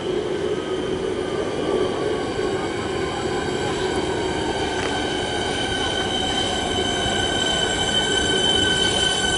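Siemens Nexas electric suburban train arriving at the platform and braking: steady high-pitched squealing tones over a running rumble, with a whine that slowly falls in pitch as the train slows. It gets a little louder toward the end.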